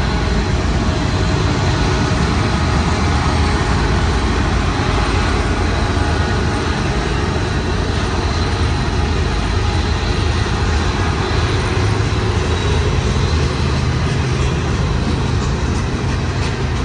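Union Pacific manifest freight train rolling past at close range, a loud steady rumble.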